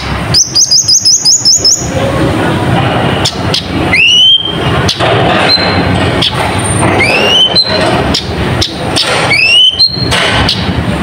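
Kolibri ninja sunbird singing: a fast run of high chirps in the first two seconds, then short rising chirp notes repeated every few seconds, over a loud, steady background noise.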